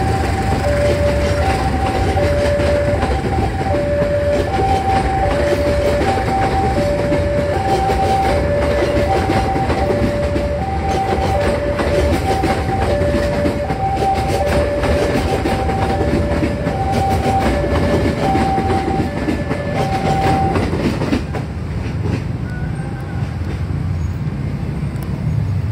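Passenger coaches of a train rolling past at close range, a loud steady rumble with the wheels clattering over the rail joints, dropping away after about 21 seconds as the last coach passes. Over it, a two-tone warning alarm alternates between a lower and a higher pitch, about one tone every three-quarters of a second, and stops just before the train has gone by.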